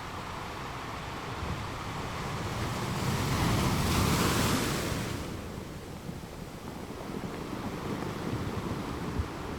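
Ocean waves breaking on rocks over a steady wash of surf. One wave swells up about two seconds in, crashes loudest in the middle, then drains away.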